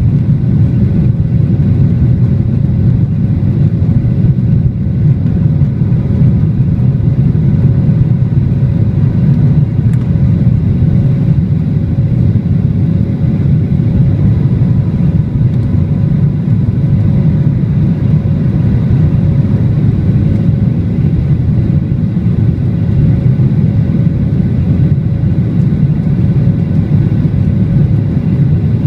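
Jet airliner engines running at take-off power, a steady loud low rumble with faint steady whining tones above it.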